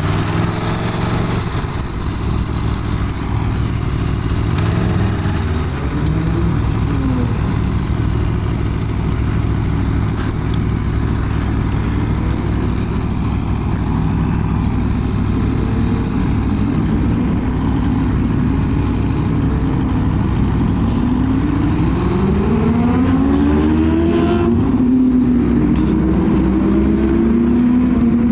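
Aprilia Tuono V4 motorcycle's V4 engine with its stock exhaust, heard from the rider's seat while riding. The engine pitch climbs and drops several times as it revs through the gears, with more rising pulls near the end, over steady wind noise.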